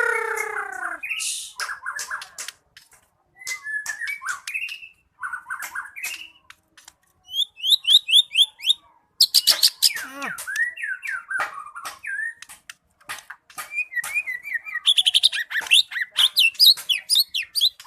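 White-rumped shama (murai batu) singing a long, varied song of whistled phrases, sharp clicking notes and fast repeated trills, with short pauses between phrases.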